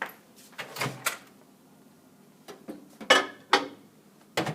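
A run of sharp knocks and clicks from a microwave oven being loaded and its door shut. The two loudest come about three seconds in, half a second apart, and another pair falls near the end.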